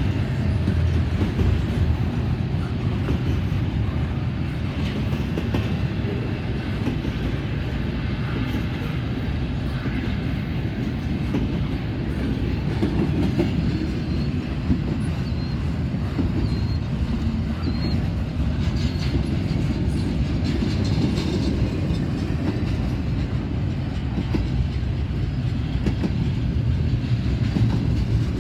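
Norfolk Southern intermodal freight train's cars rolling past on the rails, a steady rumble of wheels on track.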